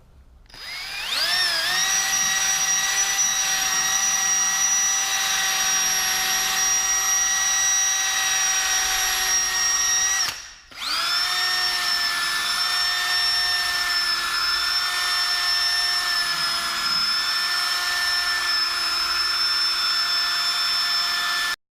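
Power drill spinning a Mother's Power Cone polishing cone loaded with buffing compound against a stainless steel exhaust tip. It spins up with a rising whine and runs steadily for about ten seconds, stops briefly, then spins up again and runs until it cuts off suddenly near the end.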